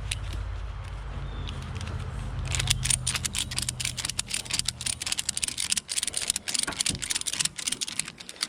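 Ratchet strap being cranked tight: a quick, uneven run of sharp metallic clicks and rattles starting about two and a half seconds in, over a low steady hum that fades out after about five seconds.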